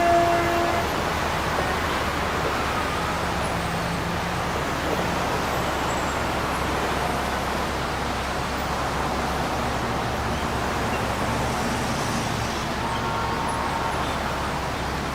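Steady street traffic noise, with a horn-like tone that stops just under a second in.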